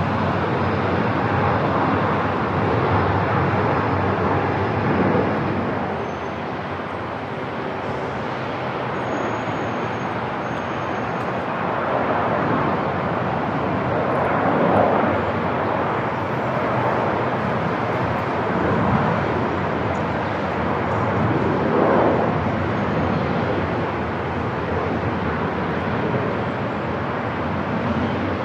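Airport ambience: a steady wash of noise with soft, muffled swells every few seconds.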